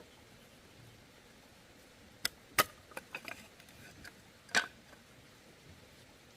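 Bamboo knocking: two sharp knocks about two seconds in, a few lighter clicks just after, and another sharp knock near the end.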